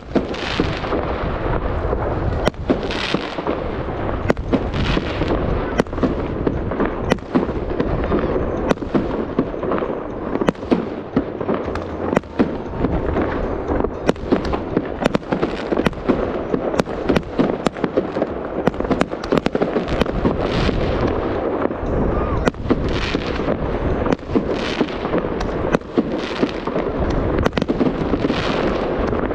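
New Year fireworks display: a rapid, unbroken series of sharp bangs from bursting shells over a continuous rumble, with bursts of crackle every few seconds.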